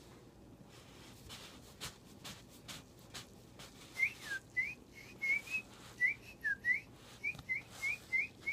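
Someone whistling a quick run of about a dozen short, mostly rising birdlike chirps, starting about halfway in. Before them there are a few faint taps and clicks.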